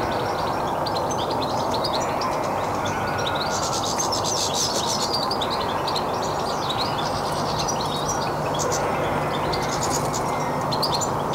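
Small garden birds chirping in quick twittering runs that come in several spells with short pauses, over a steady rumbling background noise.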